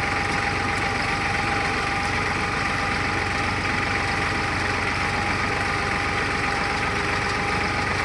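Deutz-Fahr tractor's diesel engine running at a steady speed, with a steady high whine over the engine note.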